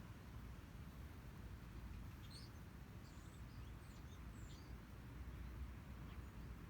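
A few faint, short, high bird chirps in the middle, over a steady low rumble of outdoor background noise.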